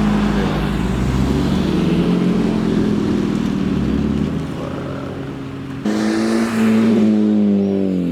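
Car engines running, with a louder engine cutting in abruptly about six seconds in and its pitch starting to drop near the end.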